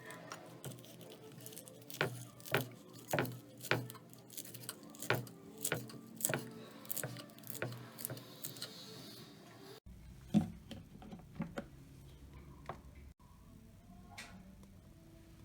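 Kitchen knife chopping on a cutting board, sharp knocks about two a second, then a few scattered knocks after a sudden change in the background about ten seconds in.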